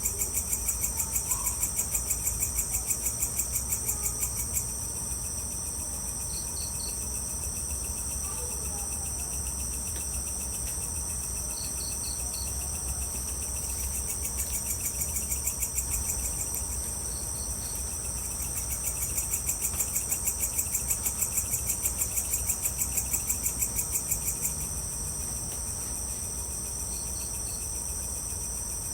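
Evening chorus of crickets and other insects: a steady high-pitched buzzing. Over it a louder pulsing trill of about three to four pulses a second sounds for the first few seconds, again briefly midway, and from about 19 to 24 seconds, and short triple chirps come every five seconds or so. A faint low rumble runs underneath.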